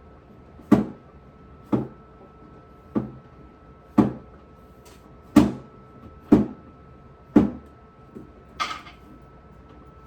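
A run of about eight sharp knocks and clunks, roughly one a second, of hard items and fittings being handled and set down in a refrigerator. A faint steady hum runs underneath.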